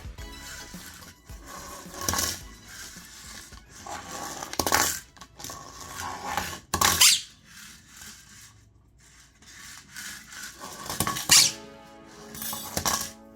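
Light plastic toys (lids, measuring cups, containers) clattering and rolling on a hard floor as a Quaker parrot throws and chases them, a sharp clatter every couple of seconds, with squeaks.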